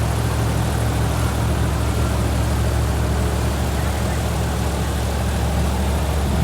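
Airboat's engine and air propeller running steadily: a loud, even low drone under a wide rushing hiss.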